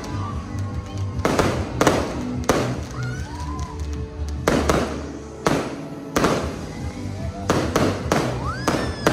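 Fireworks bursting overhead: about ten sharp bangs in uneven succession. Background music with a steady low beat plays under them.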